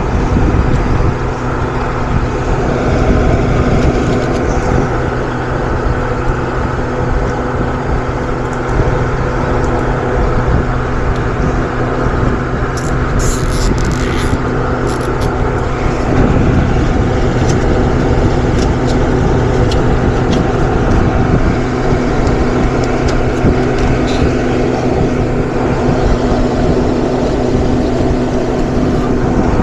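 Steady electric-motor machine hum with a low rumble, with a few short high rasps about halfway through, like zip ties being pulled tight.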